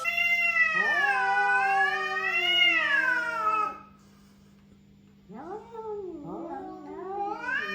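A cat yowling: one long, wavering drawn-out call lasting nearly four seconds, then after a short pause a few shorter meows.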